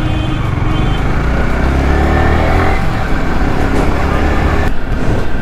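Yamaha R15 V3's single-cylinder engine running under way, its pitch climbing as the bike accelerates between about one and three seconds in, over road and wind noise.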